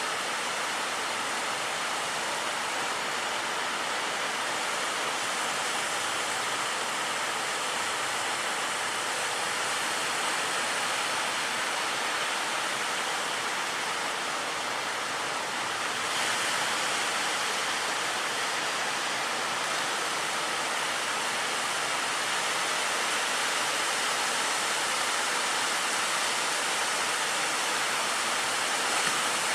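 Steady rush of heavy surf and churning sea water, getting slightly louder about halfway through.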